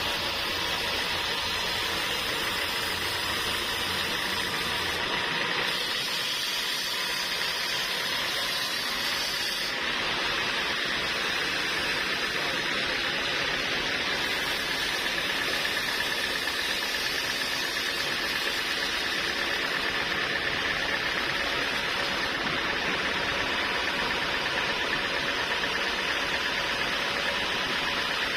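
Sawmill machinery running: a steady mechanical noise with a faint high whine, its sound changing abruptly about five and ten seconds in.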